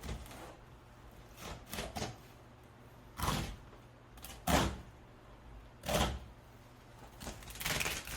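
A knife working through a sea bass on a cutting board: five or six short scraping strokes and knocks a second or so apart, over a low steady hum.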